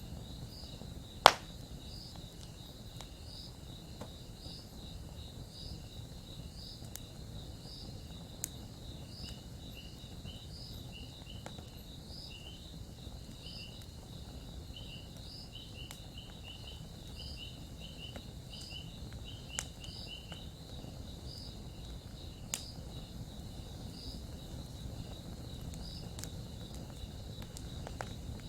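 Campfire burning with a few sharp crackles and pops, the loudest about a second in, over a low steady rumble. Insects chirp steadily in a regular rhythm throughout.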